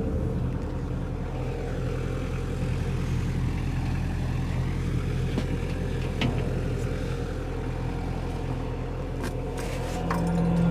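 An engine running steadily at an even speed, with a few light clicks or knocks; a steadier, stronger hum comes in near the end.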